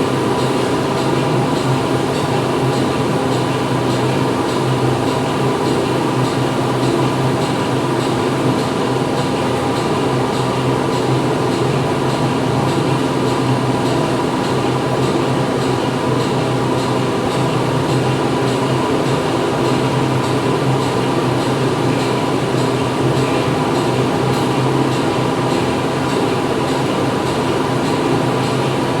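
Factory machinery running steadily: a continuous mechanical drone with a steady hum, unchanging throughout.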